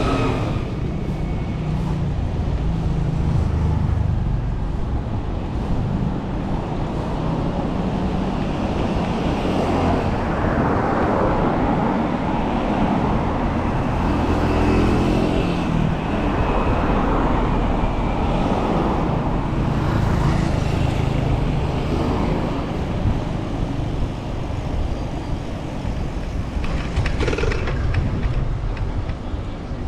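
Road traffic, cars passing along a city street, over a heavy low rumble, heard from a moving bicycle.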